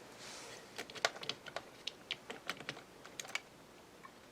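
Vintage American Flyer toy train cars being handled and their couplers fitted together: a quiet run of small, irregular clicks and taps of metal and plastic parts.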